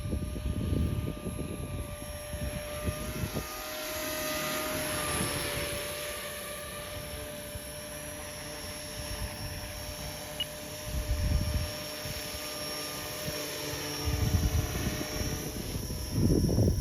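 T-Rex 450 electric RC helicopter flying, its motor and rotors giving a steady whine, with gusts of wind buffeting the microphone now and then.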